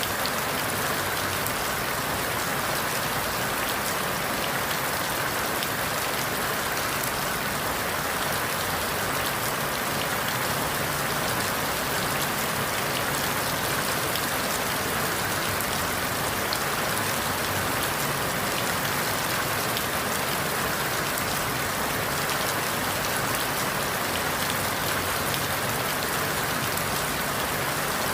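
Steady rain falling, a dense hiss of drops with fine individual patters, as of rain through forest leaves.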